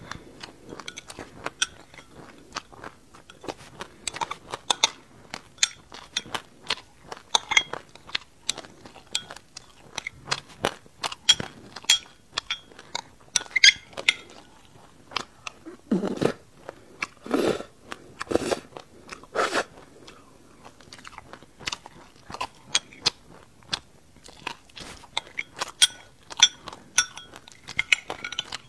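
Close-miked mouth chewing a mouthful of sesame seeds with passion fruit: dense, rapid crunching and crackling throughout, with four louder, deeper crunches a little past the middle.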